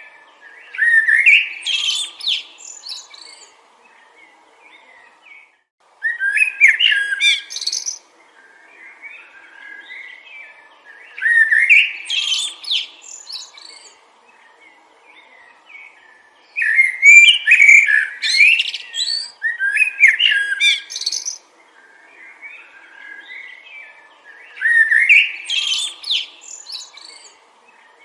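A songbird singing in bouts of quick, rising and falling chirps, five phrases of two to four seconds each with short pauses between them. Softer calls and a faint background hiss fill the gaps.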